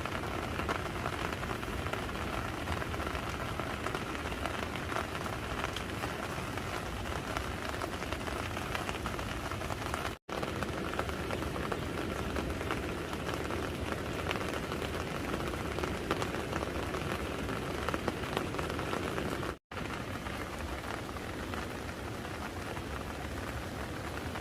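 Steady rain falling, an even hiss and patter, cut off to silence for an instant twice, about ten and twenty seconds in.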